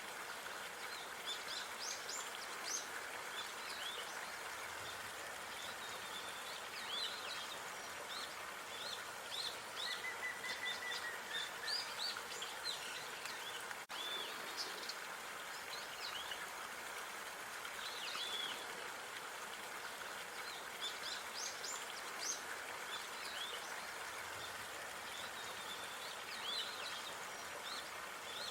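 Small songbirds chirping and singing in frequent short phrases over a steady background hiss of outdoor park ambience, with a brief dropout about halfway through.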